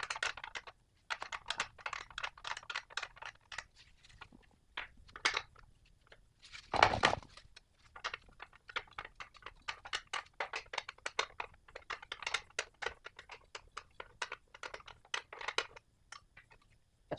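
Rapid runs of small clicks and scrapes from hand tools working a part loose, in bursts with short pauses, with one louder clatter about seven seconds in.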